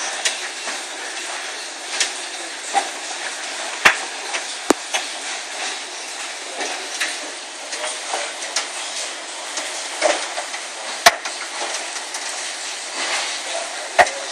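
Large hailstones striking hard surfaces amid a steady hiss of heavy rain, with irregular sharp knocks. The loudest strikes land about four seconds in, a second later, about eleven seconds in, and near the end.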